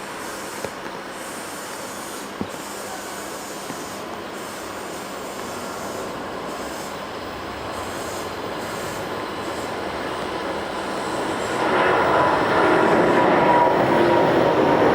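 Boeing 777-300ER's twin GE90-115B turbofan engines running on departure: a steady jet roar that grows much louder about twelve seconds in.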